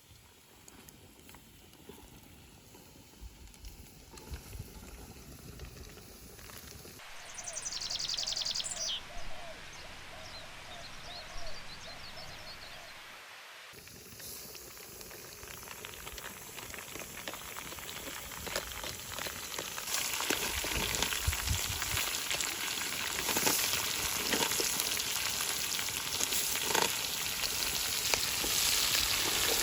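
Pork frying and sizzling in a pan over a campfire, the sizzle building steadily louder through the second half with crackles in it. A short stretch in the middle holds a few high chirps.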